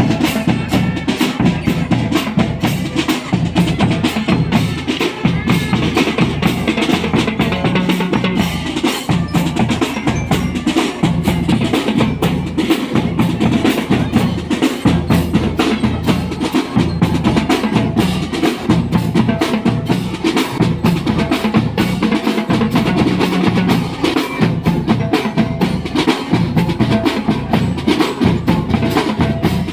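Percussion music: drums playing a fast, steady beat.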